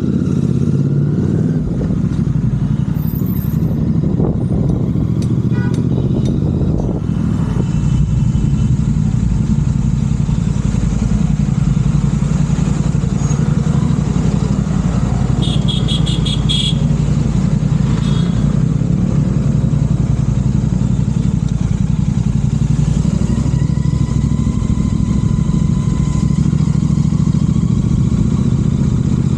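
Royal Enfield Continental GT 650's parallel-twin engine running through aftermarket Red Rooster exhausts while the bike is ridden, a loud, steady exhaust note that rises a little about a quarter of the way in.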